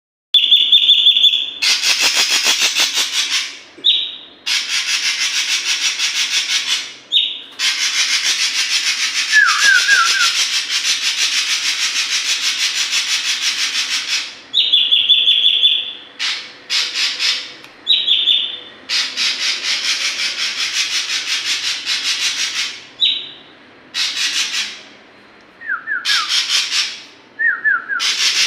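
Ashy drongo singing, practising the mimicked phrases it has learned: short clear whistled notes alternate with long, harsh, rapidly rattling buzzes, and a few quick falling chirps come in the middle and near the end.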